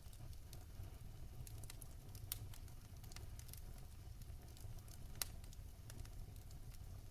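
Wood fire crackling in a fireplace: scattered sharp pops and snaps over a low steady rumble, the two loudest pops about two and five seconds in.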